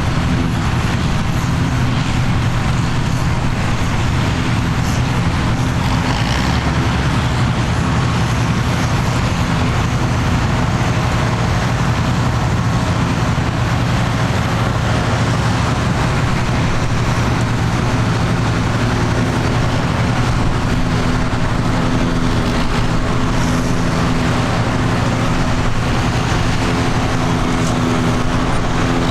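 Tractor engine running steadily under constant load, a low hum with noise over it.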